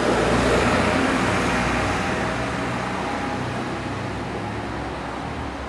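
A motor vehicle driving past and moving away, its engine hum and road noise fading steadily.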